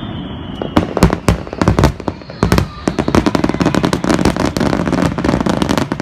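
Aerial fireworks bursting: several loud separate bangs in the first couple of seconds, then dense, rapid crackling from about halfway.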